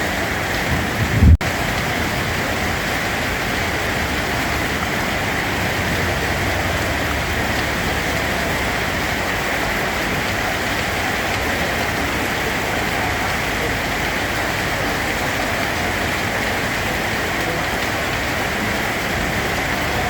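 Steady rain, an even hiss of falling rain on a surface. About a second in there is a brief low thump, then the sound cuts out for an instant before the rain carries on unchanged.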